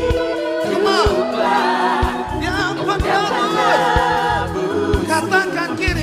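Worship song sung by a group of voices with a band: bass notes under the singing and a drum hit about once a second, a steady beat.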